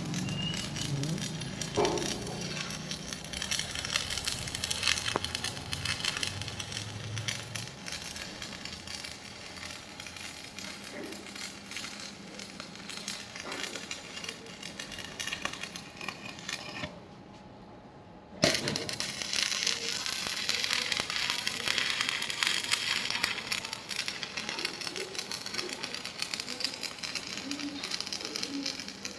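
Electric arc welding: a steady, dense crackle and sizzle of the welding arc. The arc breaks off about two-thirds of the way through and is struck again a second or so later.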